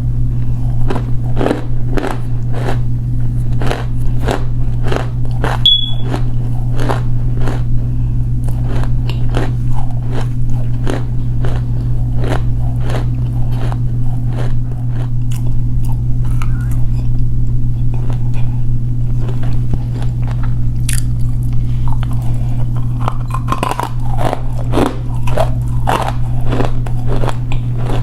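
Close-miked chewing of crunchy edible clay: sharp crunches about two to three a second, thinning out for a while in the middle, over a steady low hum.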